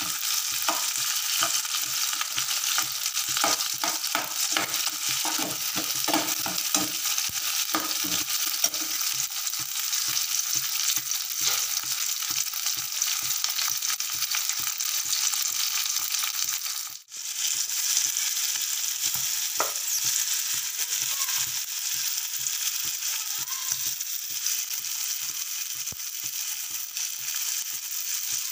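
Onions, tomatoes and green peas sizzling in hot oil in a metal kadai, with a steel ladle scraping and clacking against the pan as they are stirred, most busily in the first several seconds. The sizzle breaks off for a moment about two-thirds of the way through.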